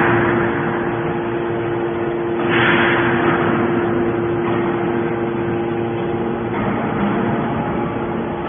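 Hydraulic aluminum can baler running: a steady pump-motor hum, with a rush of noise about two and a half seconds in that fades over a second or so.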